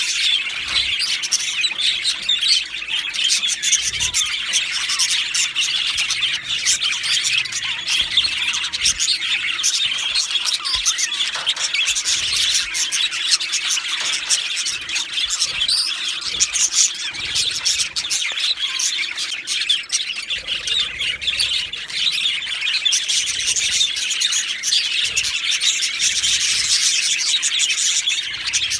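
Male budgerigars chirping and chattering continuously, with dense overlapping high chirps and occasional squawks.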